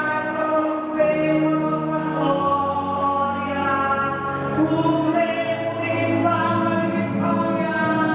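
Music with singing voices holding long, sustained notes that change pitch every second or two, choir-like.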